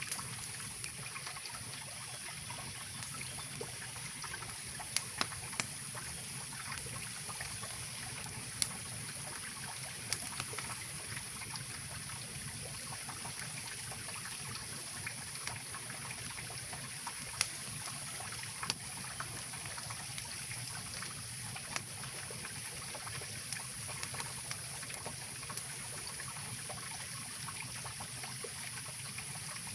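Mountain river rushing and trickling steadily, with a campfire's scattered sharp crackles and pops.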